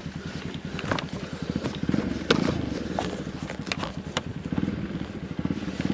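Dirt bike engine running at low revs with an even, fast pulse, with a few sharp clicks and knocks scattered through it.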